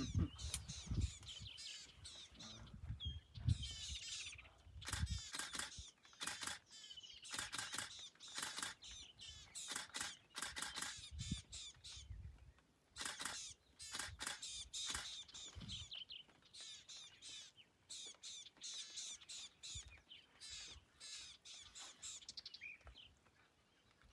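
Wild birds calling and chattering in the bush, many short, trilling calls in quick succession, with brief lulls.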